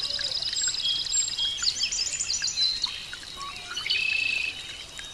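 Birds singing: a fast trill for the first second and a half, then a run of quick chirps, and a short steady call about four seconds in.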